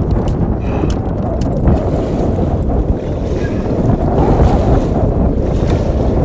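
Strong storm wind buffeting the microphone: a loud, steady low rush, with a few faint clicks in the first second and a half.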